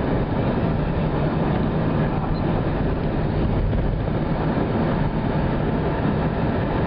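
Car driving at highway speed, heard from inside the cabin: steady tyre and engine noise with a constant low hum.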